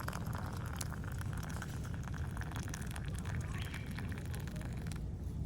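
Wood campfire crackling, with many small sharp pops and snaps over a steady low rumble.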